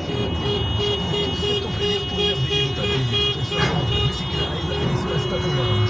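Vehicle rumble with an electronic tone pulsing on and off about four times a second, which turns into one held tone near the end.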